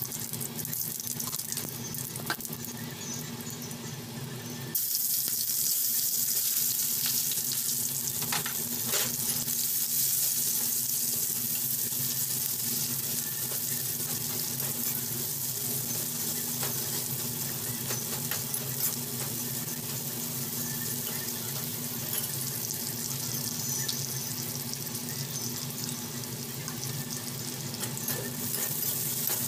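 Sliced onions frying in hot oil in an aluminium pan, stirred with a spatula. A quieter hiss gives way about five seconds in to a sudden, loud, steady sizzle, as the onions go into the oil, with a few scrapes and clicks of the spatula.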